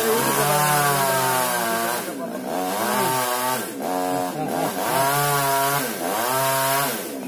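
Chainsaw running under load while cutting a coconut trunk. Its engine pitch drops and climbs back several times as the chain bites and frees.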